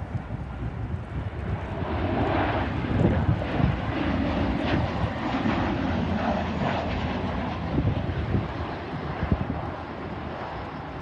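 Airliner engines passing: a broad rushing noise swells about two seconds in, holds, then eases off toward the end, with wind rumbling on the microphone.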